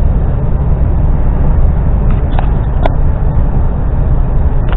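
Steady low rumble of an articulated lorry's engine and road noise, heard inside the cab while driving, with a brief click about three seconds in.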